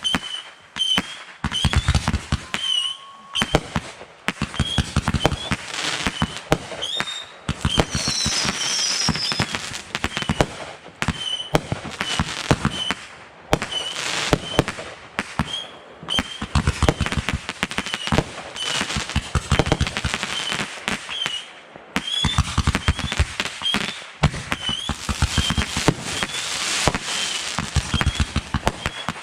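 Fireworks going off: rapid strings of bangs and crackles in bursts of a few seconds each, with short lulls between.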